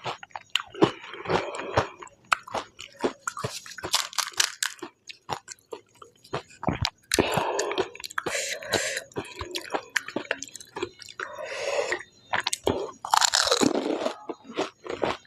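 Close-up eating of panipuri: crisp, hollow puri shells filled with spiced potato and mint-coriander water being bitten and chewed, with many sharp crackling crunches.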